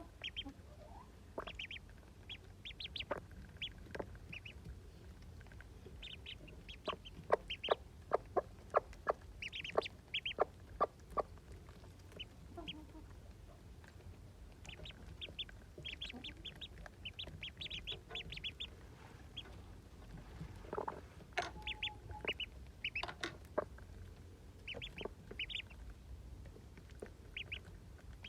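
Indian runner ducklings and silkie chicks peeping, with a run of sharp taps about a third of the way in.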